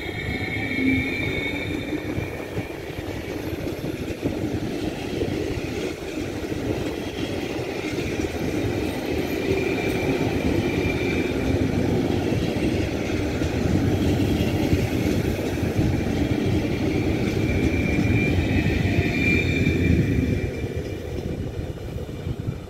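Trenitalia ETR 343 electric multiple unit (a Stadler FLIRT), two sets coupled, pulling out and running past with wheel-on-rail rumble and a high whine that comes and goes. It grows louder as the train gathers speed, then drops away near the end as the last car passes.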